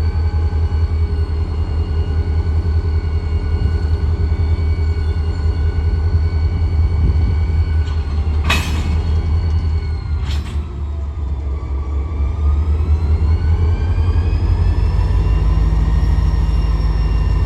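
Diesel locomotive running close by: a deep engine rumble with a whine above it, whose pitch sags and climbs back over the last few seconds. Two sharp clicks come about halfway through.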